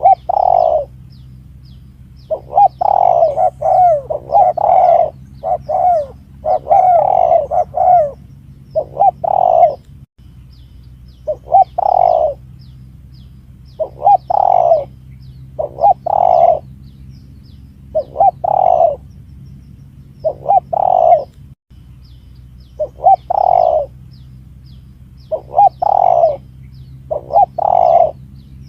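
Spotted dove (tekukur) cooing over and over as a bird-lure call: groups of short mellow coo notes about a second or two apart, over a steady low hum, with faint high chirps of small birds.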